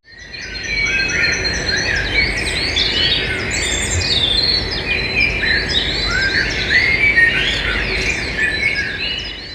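Many birds chirping and calling over one another, with a low steady rumble underneath; it fades in at the start and fades out near the end.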